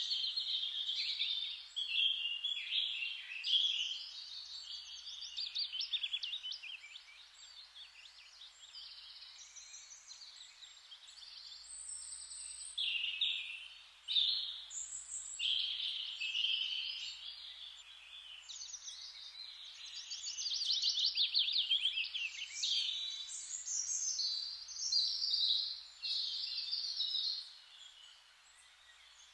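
Several songbirds singing at once, overlapping rapid chirps and trills, with a lull of a few seconds before the singing picks up again.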